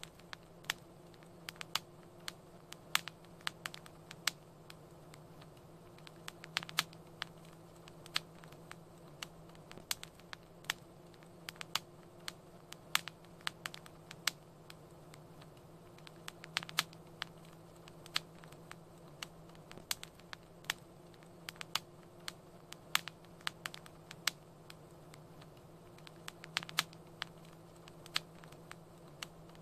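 Wood fire crackling in a fireplace: frequent irregular sharp pops and snaps over a steady soft hiss of burning.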